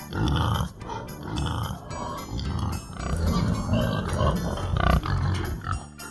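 Pig grunting repeatedly, in a run of low, rough grunts.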